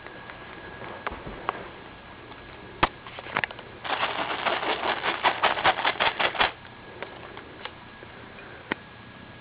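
Kitten at play with a toy: a few isolated taps and knocks, then a rapid, scratchy clicking rattle lasting about two and a half seconds, followed by a couple more single taps.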